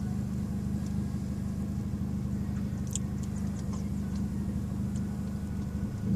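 Car engine idling steadily, heard from inside the cabin as a low, even hum, with a few faint ticks.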